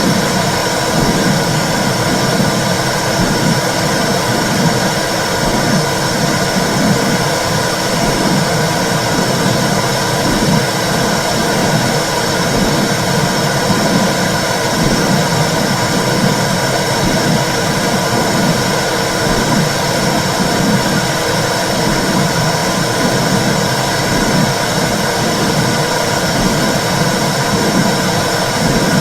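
Womb sound for soothing babies: a steady rushing noise with a low, regularly pulsing whoosh underneath, like blood flow heard inside the uterus.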